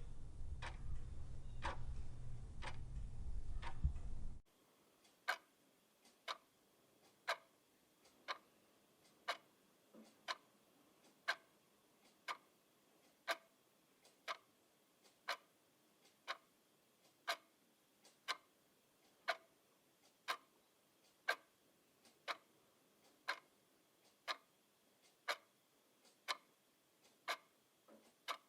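Clock ticking with evenly spaced sharp ticks, about two a second over a low rumble. About four seconds in, the rumble cuts off suddenly and the ticking goes on at about one tick a second.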